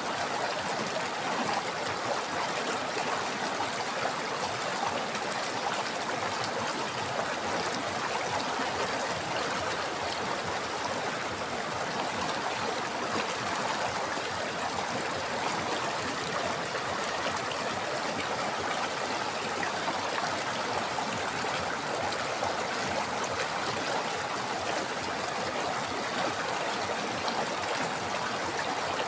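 A river or stream running over rocks, a steady rushing and babbling of water that does not change.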